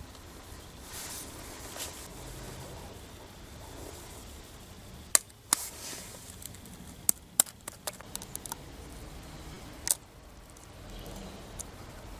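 Several sharp, short clicks and cracks over a faint steady background, the loudest about five seconds in, with more around seven and a half seconds and one near ten seconds.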